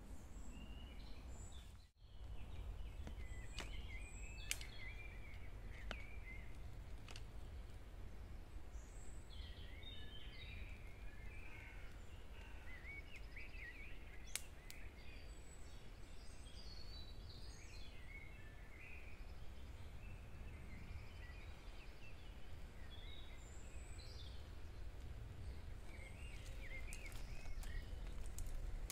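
Small woodland birds chirping and calling in many short notes over a steady low rumble, with a few sharp clicks.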